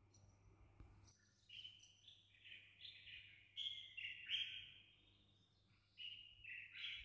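Faint bird song: a run of short chirped notes stepping up and down in pitch, over a faint steady low hum.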